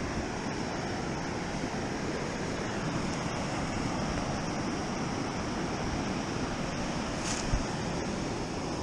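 Ocean surf breaking and washing steadily on the beach, with some wind on the microphone; a single short click about seven and a half seconds in.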